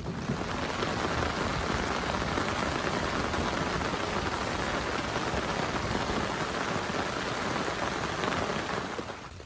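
Heavy rain falling in a dense, steady hiss that starts suddenly and fades out near the end.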